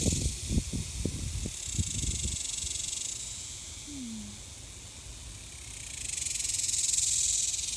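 Cicadas buzzing in the trees: a steady high-pitched hiss that swells and fades in waves, loudest near the end. Low thumps and rustles in the first two seconds.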